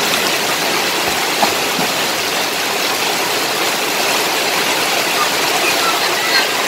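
Steady rushing noise of heavy rain and floodwater. Two brief louder splashes or knocks stand out, one about a second and a half in and one near the end.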